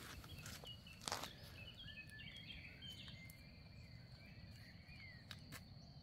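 A small bird twittering in a run of short chirps, over a steady high-pitched tone and a faint low rumble. A couple of sharp clicks cut in, the loudest about a second in.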